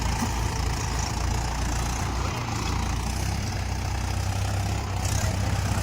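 Tractor diesel engine running steadily at low revs, a deep even hum.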